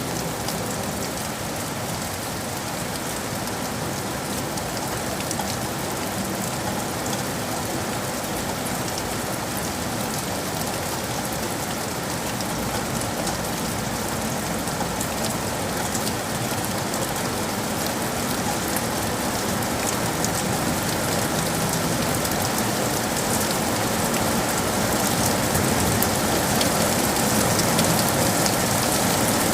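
Steady rain falling on hard surfaces, with fine individual drops ticking through the wash. It grows gradually louder over the stretch.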